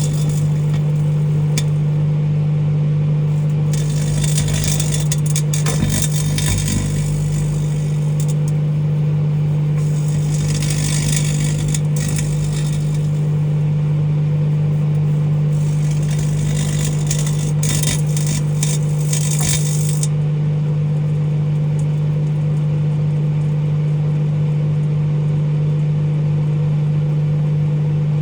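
Microwave oven running with a steady low hum while metal tongs inside arc, giving three bursts of crackling and sizzling sparks of a few seconds each, the last ending about two-thirds of the way through.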